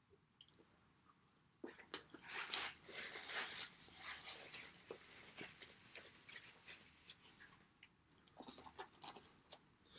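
Faint, close chewing and biting of pizza crust dipped in garlic sauce: wet mouth sounds with small crunchy clicks, starting about two seconds in, thinning out after about six seconds and picking up again near the end.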